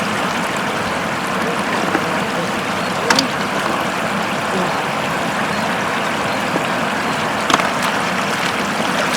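Floodwater running steadily in a shallow flow, with two brief sharp sounds, one about three seconds in and one near the end.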